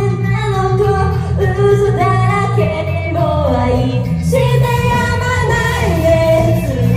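Female idol group singing live over a loud pop backing track through the venue's PA, with the sound of a large hall; the song moves into a brighter section about four seconds in.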